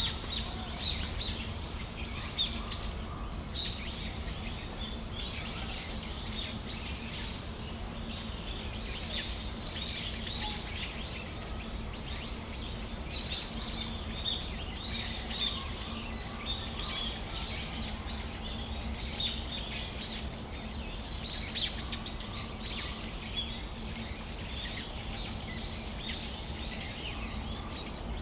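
Brown-eared bulbuls calling: many short, shrill chirps, often overlapping, over a steady low background hum.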